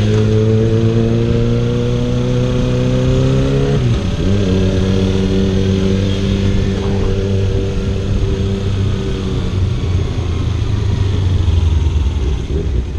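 Kawasaki Ninja 300's parallel-twin engine running under way, its note climbing slowly. The note dips sharply and recovers about four seconds in, then fades into a rough rumble after about nine seconds.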